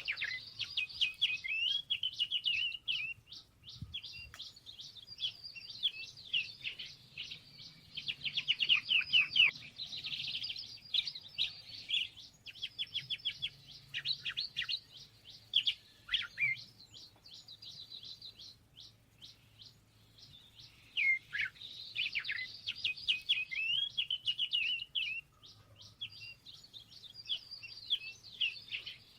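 Small songbirds chirping and twittering almost without pause: many quick chirps and fast trills overlapping, over a faint low hum.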